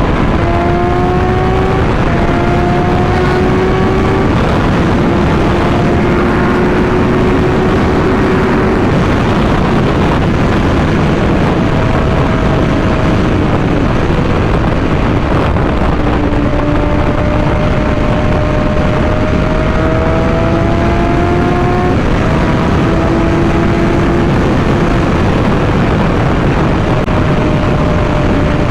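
Suzuki GSX-R600 inline-four engine running under way, mostly buried in a loud, steady rush of wind noise. Its faint note climbs slowly and breaks off several times, then picks up again.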